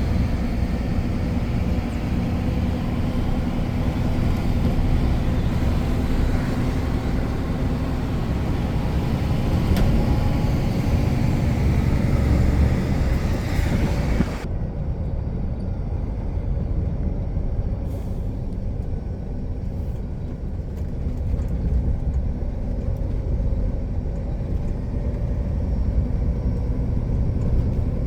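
Container truck driving on the road: steady engine and road rumble heard from the cab. A higher hiss over the rumble cuts off suddenly about halfway through.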